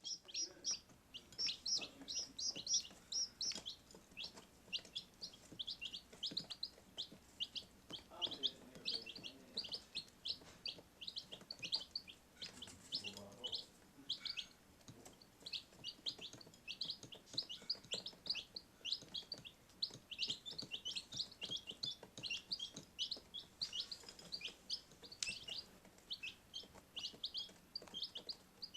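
Baby chicks peeping nonstop, many short high-pitched chirps overlapping in quick succession.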